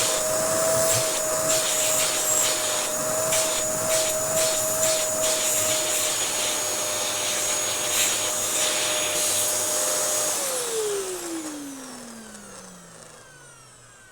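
Dyson DC07 bagless upright vacuum cleaner running at full speed with a steady whine and hiss, then switched off about ten seconds in, its motor winding down in a long falling tone. The owner says the motor needs replacing.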